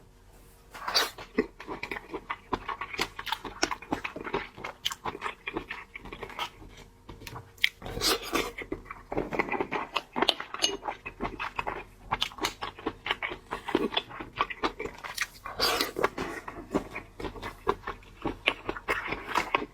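Close-up chewing and biting of seafood, full of irregular crackling crunches and wet mouth clicks.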